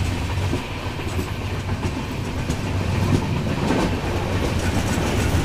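Passenger train running along the track: a steady rumble with scattered clicks of the wheels over the rails.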